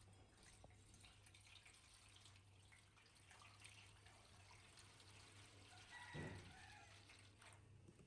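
Very faint trickling and dripping water over a low steady hum, with a slightly louder splash about six seconds in.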